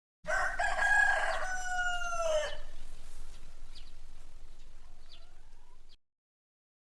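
A rooster crows once, a long call of about two seconds that drops in pitch at the end. A few faint short chirps follow before the sound cuts off.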